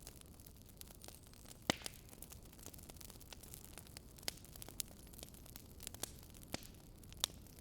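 Wood fire crackling: irregular sharp pops and snaps of burning logs over a faint steady hiss.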